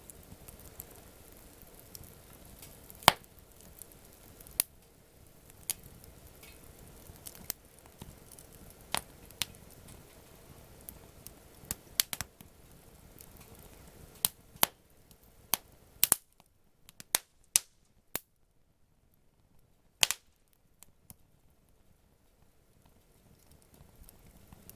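Wood campfire crackling: sharp, irregular pops and snaps from the burning wood, some loud and some faint, over a low rush. Near the end the rush falls away and only scattered pops are left.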